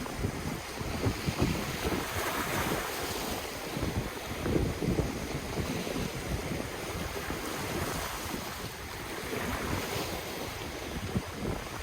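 Ocean waves washing in and breaking on the shore, with wind gusting and rumbling on the microphone.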